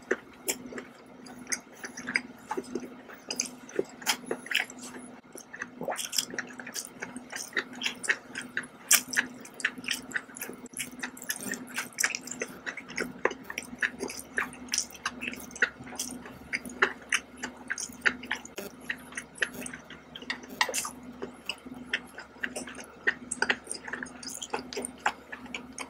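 Close-miked chewing of soft, thick scallop meat: wet mouth clicks and smacks in a quick, irregular run, over a faint steady low hum.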